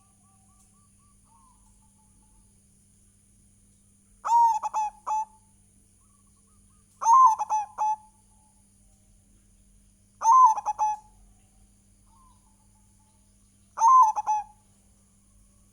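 Zebra dove (perkutut) singing its cooing song: four phrases of about a second each, roughly every three seconds, with faint softer cooing near the start.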